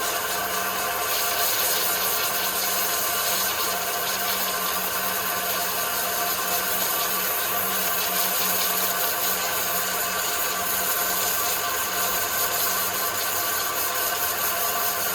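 A woodworking machine running steadily while working wood, a constant hum under a dense high hiss.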